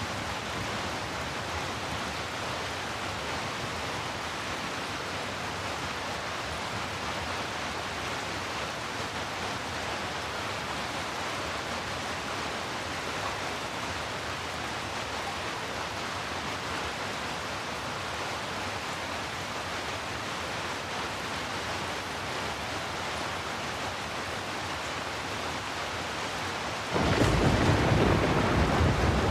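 Steady rain falling, an even hiss. Near the end a sudden, much louder deep rumble breaks in and keeps going: a roll of thunder.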